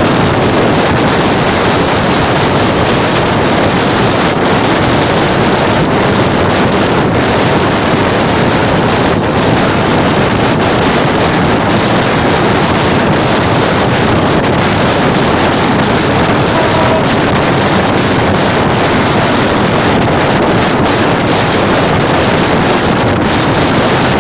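Loud, steady wind noise on the microphone over the running of a moving train, heard from the side of its diesel locomotive.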